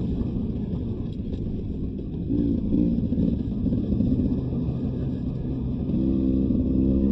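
Beta 300 RR two-stroke enduro dirt bike engine running while riding a trail, the revs rising and falling, with a quick change in pitch a few seconds in and a steadier, higher note near the end.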